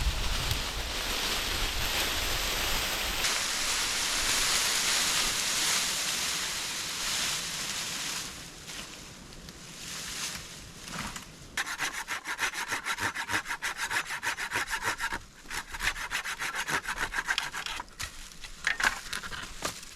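Hand saw cutting wood with quick, even back-and-forth strokes, in two runs through the second half, a short break between them. Before that, a steady rushing hiss.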